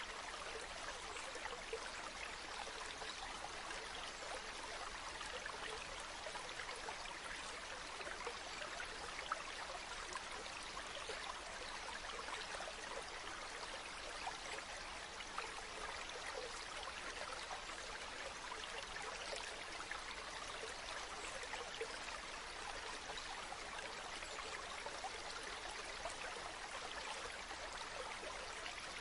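Steady rushing and babbling of a river's flowing water, an even wash of splashing and trickling with no change.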